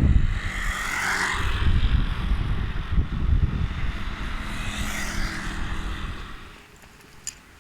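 Wind buffeting the microphone in uneven gusts, with a broader rushing sound swelling twice. Everything drops away about six and a half seconds in, and a single click follows near the end.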